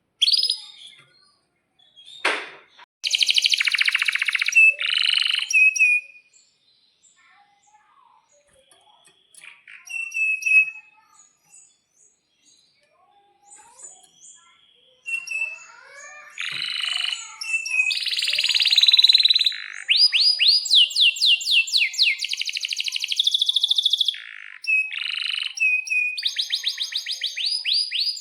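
Male domestic canary singing. A short burst of song comes a few seconds in, then a lull of scattered chirps. From about halfway it sings a long, nearly unbroken song with rapid trills of fast repeated notes.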